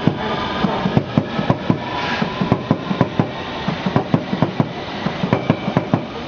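London Underground S7 Stock District Line train departing and passing close by, its wheels clacking over the rail joints and points in a rapid, uneven series of knocks, about four or five a second.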